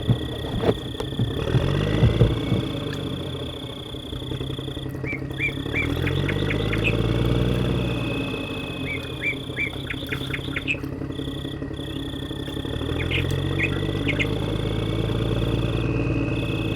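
Small motor of a DIY mini tractor running, its pitch rising and falling a couple of times, with short runs of bird chirps over it.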